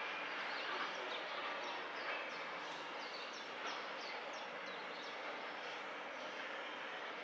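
Steady rumble of a distant train on the line. About two and a half seconds in, a bird gives a quick run of short, high, falling chirps.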